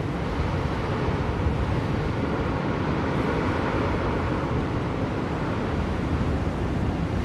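Steady blizzard wind, an even rushing noise that is heaviest in the low range, with no distinct events.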